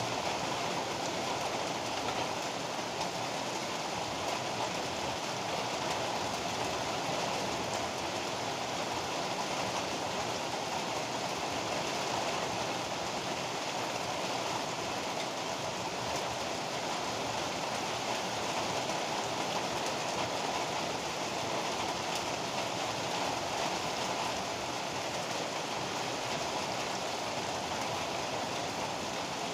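Heavy rain falling steadily: an even, unbroken hiss with no thunderclaps.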